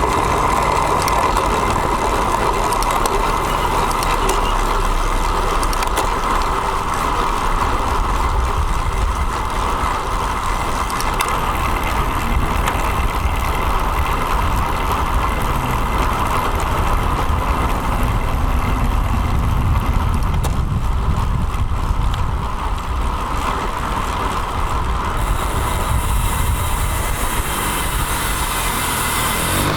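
Steady rush of wind and road noise on a bicycle-mounted action camera while riding a road bike, with a low rumble of road traffic.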